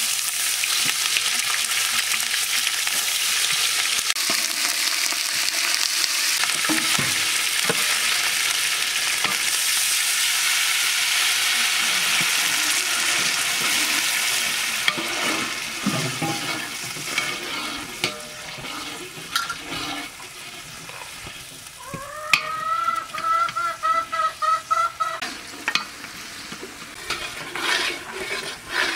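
Chicken frying with spice pastes in a large aluminium pot, stirred and scraped with a metal ladle: a steady sizzle for the first half, then quieter scraping and clicks of the ladle. About three quarters of the way through a rooster crows once, a rising then held call of about three seconds.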